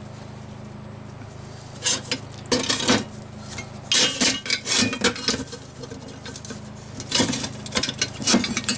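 Steel pieces and tools knocking and clinking together in irregular clusters as a cut steel brace is handled and fitted into place before tack welding, over a steady low hum.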